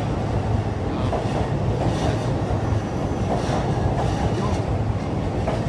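Steady railway noise beside a train: a low hum and rumble with a few faint clicks.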